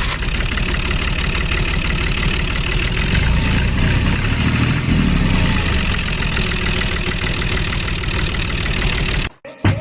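Steady engine-like running of the mini tractor, with a low rumble and a fast flutter, cutting off abruptly near the end.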